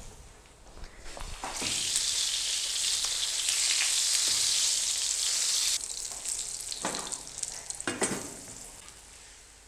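Ghee sizzling on a hot tawa under a frying lacha paratha: a loud, even sizzle from about a second and a half in that drops off suddenly near the middle, then two short flares of sizzle as the paratha is pressed with a spatula.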